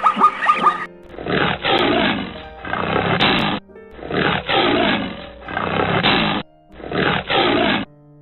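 A large animal roaring repeatedly, in three bouts of two loud, rough calls each, with short pauses between them.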